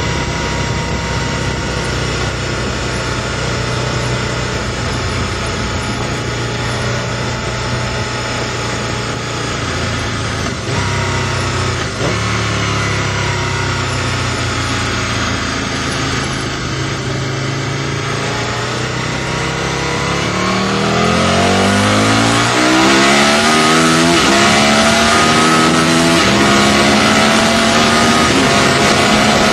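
Aprilia RSV Mille's V-twin engine through a Micron aftermarket exhaust, running at a steady cruise, then accelerating hard about two-thirds of the way through, its note climbing in pitch and getting louder. Wind noise grows as the speed picks up.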